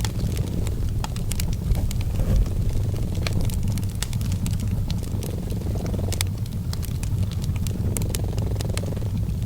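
A cat purring in a steady low rumble, mixed with a wood fire crackling in many sharp, irregular pops.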